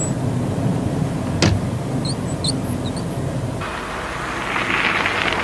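Volkswagen car running with a steady low rumble, broken by a sharp click and a few short high squeaks about two seconds in: the squeaky noise being hunted down. A rushing hiss builds from a little past three and a half seconds.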